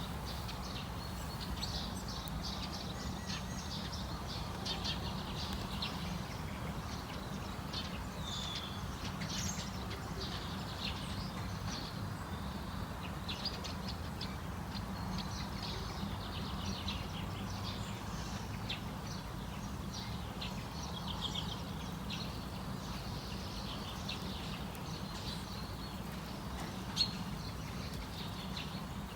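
A flock of many small birds chirping and calling together in a dense, overlapping chorus, over a steady low rumble.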